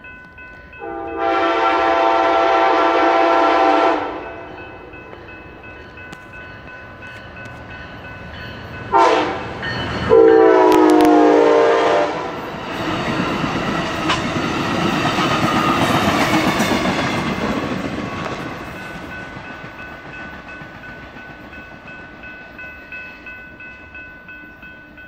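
Amtrak Cascades passenger train sounding its horn: a long blast, then about five seconds later a short blast and another longer one. The train then passes close by, its rolling noise swelling and fading away.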